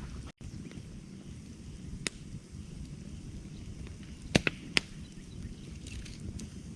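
Campfire burning with a steady low rumble, its wood crackling with a few sharp pops: one about two seconds in and a loud cluster of three at about four and a half seconds. The sound drops out for an instant just after the start.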